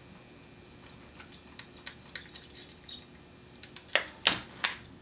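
Small metal clicks and clinks of hand tools working on metal parts, scattered at first, then three sharp, louder clacks in quick succession near the end.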